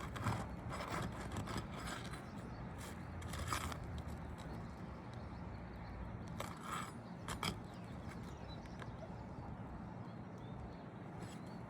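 Irregular scrapes and light knocks of a hand tool worked under asphalt roof shingles, feeling for the hidden nails that hold a damaged shingle.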